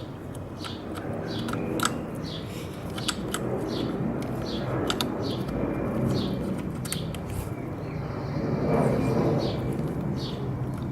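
A small bird chirping over and over, a short high chirp about twice a second. A few sharp clicks and a low murmur sit underneath.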